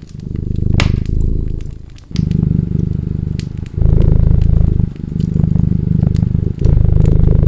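Cat purring close and loud, a low rumble that swells and breaks with each breath, in stretches of one to two seconds. Wood fire crackling with scattered sharp pops over it.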